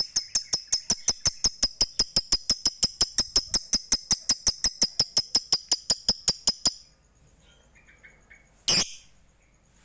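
A bird calling in a fast, even series of sharp high-pitched chips, about six a second, for nearly seven seconds before stopping abruptly. After a short pause come a few faint chirps and one short, loud, shrill call near the end. It is played as a tutor recording to prompt lovebirds into calling.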